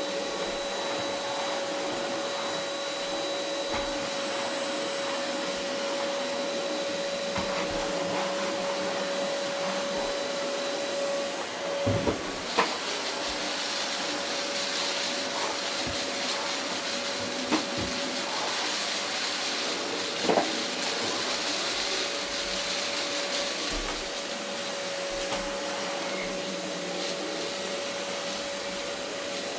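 Vacuum cleaner running on carpet: a steady motor whine over airflow hiss. In the middle a few knocks sound, and for about ten seconds the whine drops away while the hiss grows louder.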